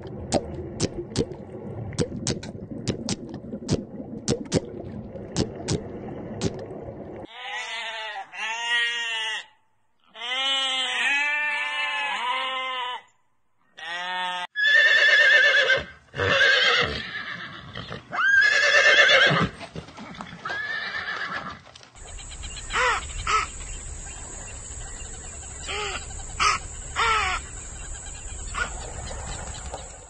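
Several animal sounds in turn, the loudest a horse whinnying: two long, loud neighs about halfway through. Before them come rapid clicking and crackling, then a run of short, repeated pitched calls. Near the end a few quieter calls sound over a steady high whine.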